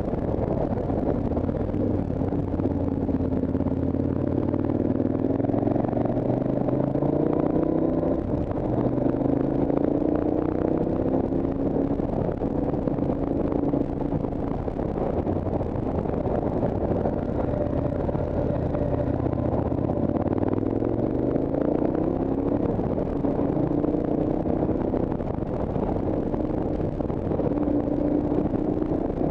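Motorcycle engine pulling up a winding mountain road, its revs rising and falling again and again through gear changes and corners.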